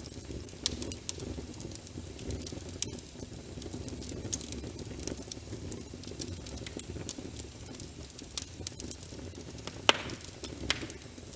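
Wood fire crackling with frequent sharp pops, the loudest near the end, over a steady low, muffled rush of rain.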